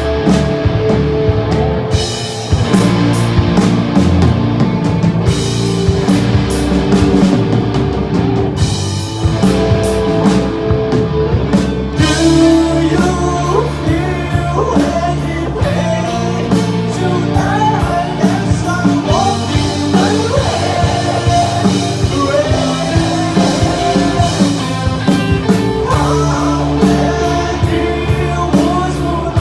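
A rock band playing live, with drum kit and electric guitars, and a melodic line gliding over the band in the second half.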